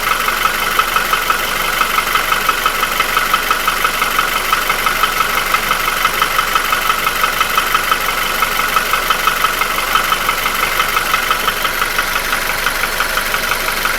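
Nissan QG16DE four-cylinder engine idling with a steady, even knock, about five a second. The owner places the knock at the front of the block between cylinders 1 and 2 and says it cannot be heard at higher revs; the engine has no hydraulic lifters, and the knock began after new piston rings and a new timing chain.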